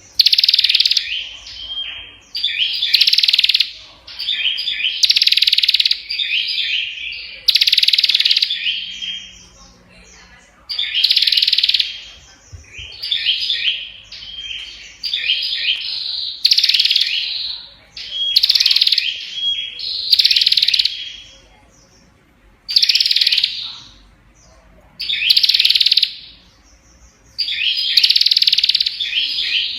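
Prinia (prenjak) singing continuously: loud, rapid chattering phrases about a second long, repeated every two seconds or so with only short pauses between.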